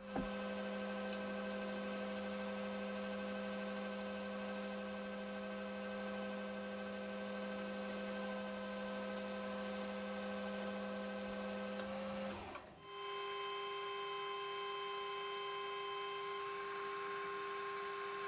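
Metal lathe running steadily while turning a steel sleeve blank, a hum of several steady tones from its motor and gearing. About twelve seconds in the sound briefly drops away and resumes at a different, higher-pitched steady tone.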